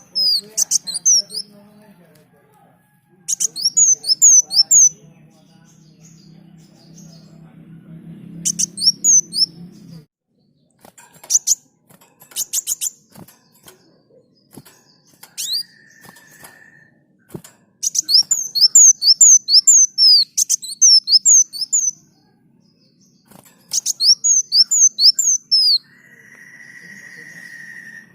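Kolibri daun (sunbird) singing: bursts of rapid, high, sliding chirps in quick runs of one to two seconds, repeated several times with short pauses between. Twice a short, steady, lower whistle-like note sounds between the phrases, with a faint low hum under the first third.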